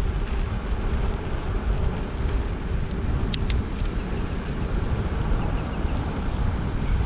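Wind rushing over the microphone of a camera carried on a moving bicycle, a steady low rumble. A couple of brief high ticks come about three and a half seconds in.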